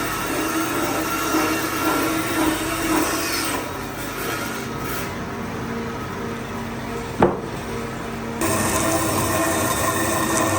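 A power tool working wood, with steady motor and rubbing noise. It eases off about three and a half seconds in and comes back near the end, with a sharp click in between.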